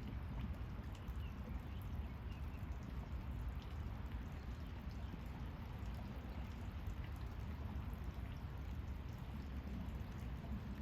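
Steady running water with scattered drips.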